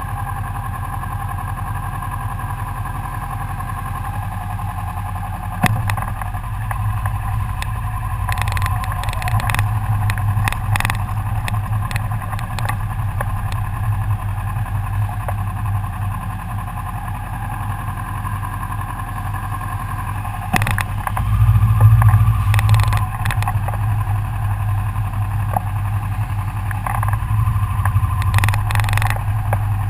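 Motorcycle engine running at a steady idle-like hum, with scattered clanks and knocks. The engine rumble swells briefly about two-thirds of the way through.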